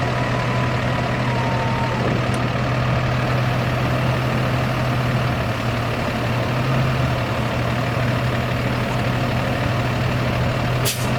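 Cummins 6.7L ISB six-cylinder diesel in a 2018 International 4300 dump truck idling steadily. A faint whine fades out about two seconds in, and a short sharp sound comes near the end.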